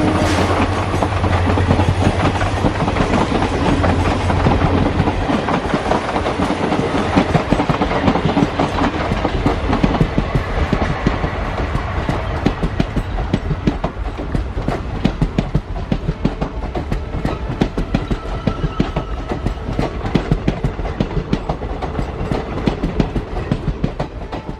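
A train's wheels clattering rapidly over the rail joints, with a low rumble, fading gradually as it moves away.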